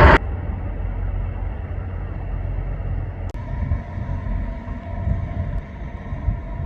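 Loud jet aircraft noise cut off abruptly at the very start, followed by a low, steady rumble of distant engines, with faint steady hum tones coming in about three seconds in.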